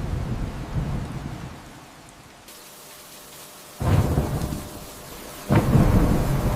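Thunderstorm with steady rain: a rumble of thunder fades away at first, then two sudden thunderclaps about a second and a half apart, each followed by a rolling rumble.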